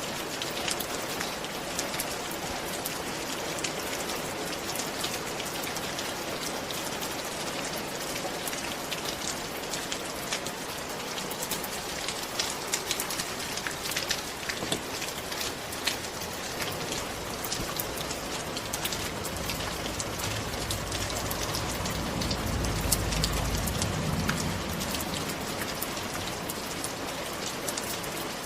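Steady rain falling on a surface: an even hiss with many separate drops ticking through it. About twenty seconds in, a low rumble swells for a few seconds and fades.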